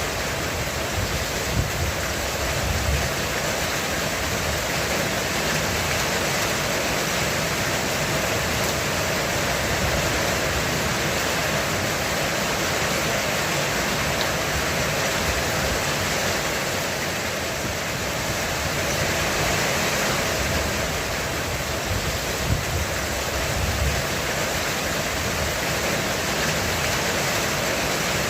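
Heavy rain pouring steadily on a roof, with a low roll of thunder rumbling twice underneath, near the start and again near the end.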